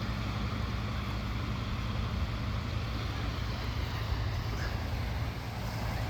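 Wind buffeting the microphone as a steady low rumble, over the even wash of surf on the beach.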